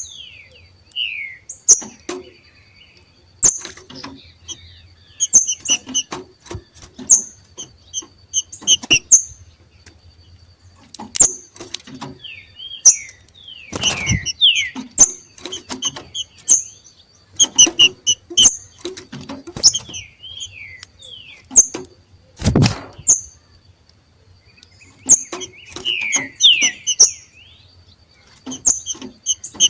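Two green-winged saltators (trinca-ferro) giving 'macheado' calls, the chattering call of birds coming into breeding condition: irregular bursts of short sharp chirps and quick descending notes, mixed with many sharp clicks. Two louder thumps break in about halfway and about three-quarters of the way through, and a faint steady high tone runs underneath.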